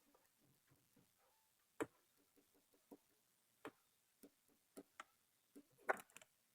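Irregular light clicks and taps from small hard objects being handled, with a sharper click about two seconds in and a short cluster of clicks near the end.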